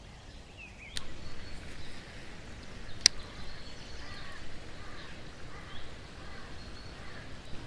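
Faint outdoor ambience with scattered bird calls and a single sharp click about three seconds in.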